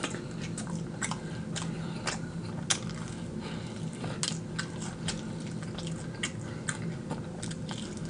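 Close-up crunching and chewing of extra-crispy fried chicken wings, with irregular sharp crackles as the crust breaks.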